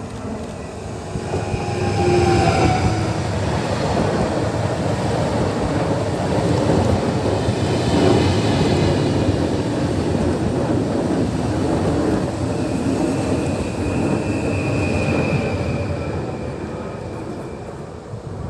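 ED160 PESA Dart electric multiple unit passing through the station, with a loud, steady rumble of wheels on rail that builds about two seconds in and eases near the end. A thin, high squeal rides over it briefly near the start and again about two-thirds of the way through.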